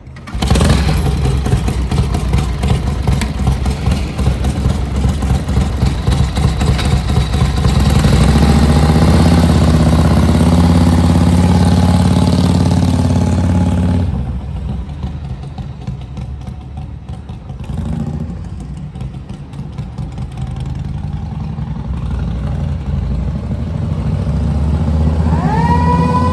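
1946 Harley-Davidson EL Knucklehead's overhead-valve V-twin starts up about half a second in and runs. It holds a louder, steady high idle for several seconds, then drops back to idle around midway, with a short blip a few seconds later. Near the end the police siren starts winding up, a rising wail over the engine.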